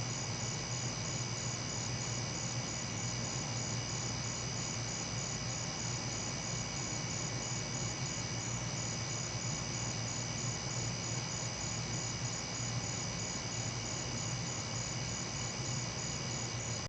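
Steady chorus of crickets and other night insects: a fast, evenly pulsed high trill over a steadier high buzz, with no thunder.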